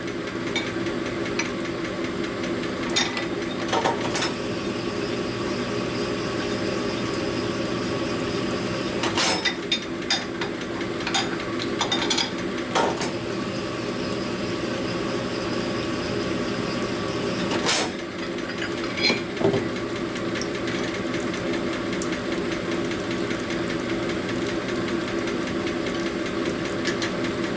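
Motor-driven cylinder hone running steadily, its stones cutting inside a Harley shovelhead's cast-iron cylinder bore to bring it up to size, with a few scattered clicks and knocks.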